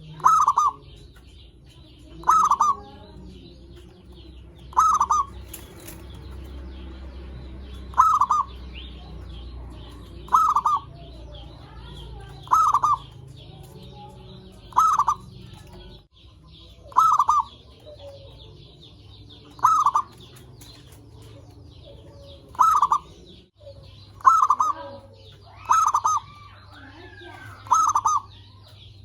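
Zebra dove (perkutut) cooing: a short call repeated about every two seconds, coming closer together near the end. A faint, steady high chirring runs underneath.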